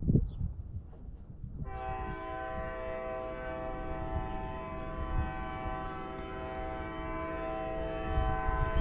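Locomotive air horn sounding one long, steady multi-note chord, starting about two seconds in, over a low rumble.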